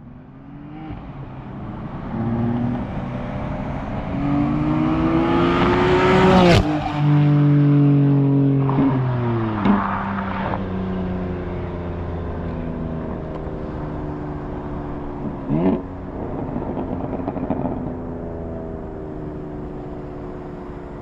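BMW F80 M3's twin-turbo straight-six accelerating through the gears. Its revs climb steadily, then drop sharply at an upshift about six and a half seconds in, with another shift near ten seconds. The engine then settles to a steady run with a brief rev blip near sixteen seconds.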